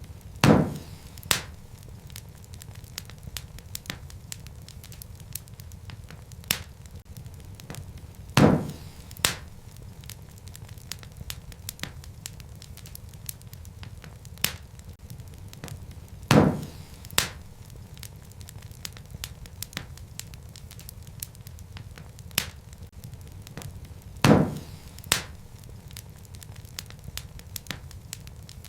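Wood fire crackling in a fireplace, with a steady low rumble of flame and scattered small snaps. A louder pop comes about every eight seconds, each followed by a second, smaller pop under a second later.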